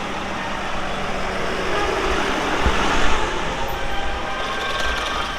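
Tractor engines running as tractors drive past in a procession, the sound swelling to a louder pass about two to three seconds in.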